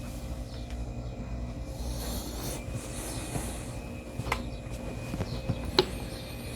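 Quiet handling of cylindrical lithium-ion cells being hot-glued into a row: a few light clicks and taps over a steady low hum.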